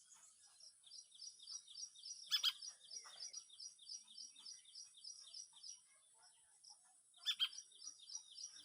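Indian golden oriole fledgling calling for its parent: a fast series of short, faint, high chirps, about four a second, with two louder calls, one about two seconds in and one near the end. A steady high hiss runs underneath.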